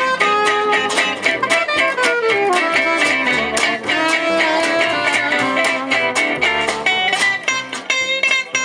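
Gypsy-jazz (jazz manouche) band playing live: guitar strumming a steady chopped beat under a melodic lead line, an instrumental break with no singing.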